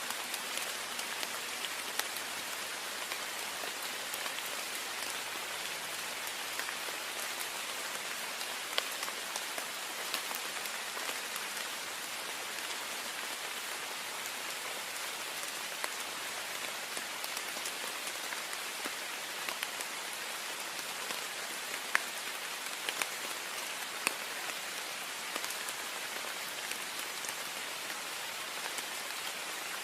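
Heavy rain pattering steadily against a window pane, a dense even hiss with scattered sharper drop ticks.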